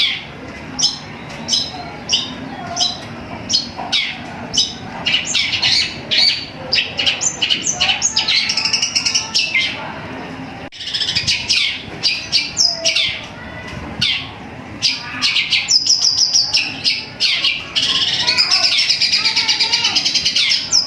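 Long-tailed shrike (cendet) singing a fast string of sharp chirps broken by quick trilled runs, in a song that mimics tree sparrow chirping. It pauses briefly about halfway through.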